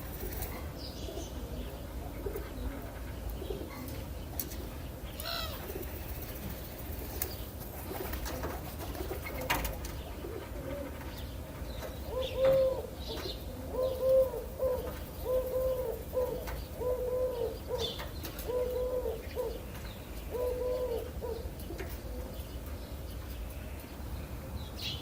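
A dove cooing: a run of about seven low, even coos, a little over a second apart, in the second half. Before the coos there are faint chirps of other birds and a few clicks, over a steady low background rumble.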